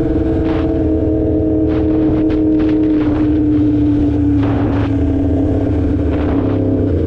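2016 Yamaha R1's crossplane inline-four engine running on the move, its pitch falling slowly and steadily as the bike eases off. Short rushes of noise ride over it.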